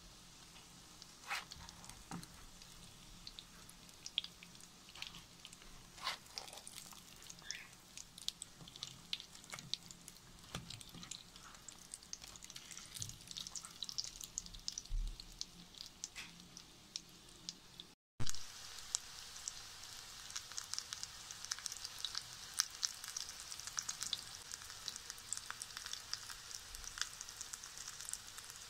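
Breaded zucchini cutlets shallow-frying in olive oil in a nonstick pan: a steady sizzle with scattered crackles and pops. After a brief gap about two-thirds of the way in, the crackling is denser and louder.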